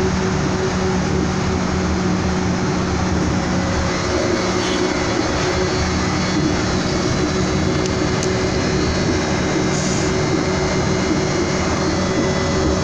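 A train running steadily, heard from inside the carriage: an even rumble with a constant motor hum, unbroken throughout.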